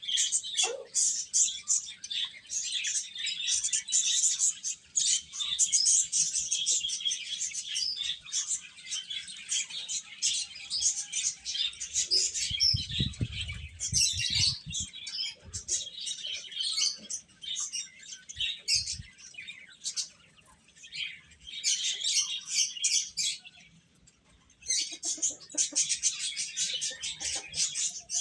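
A group of baby chicks peeping continuously, many rapid high-pitched cheeps overlapping, easing off briefly twice in the second half. A short low rumble comes about halfway through.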